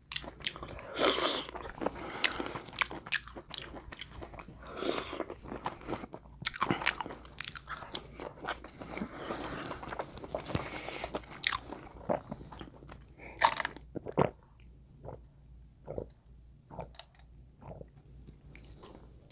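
Close-miked mukbang eating of a seafood boil: wet chewing and biting with frequent sharp crunches and cracks, busiest in the first half and sparser later.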